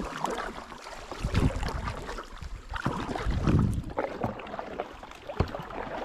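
Kayak on a river: paddle strokes and water sloshing against the hull, with gusts of wind buffeting the microphone in uneven surges.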